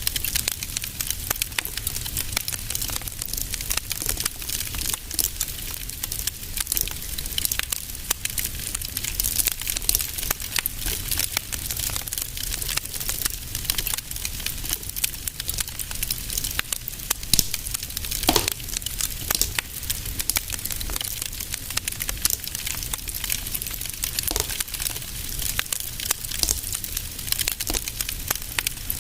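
Fire in a fireplace crackling and popping steadily in quick irregular clicks over a low rumble. About eighteen seconds in, a brief thin whistle falls in pitch.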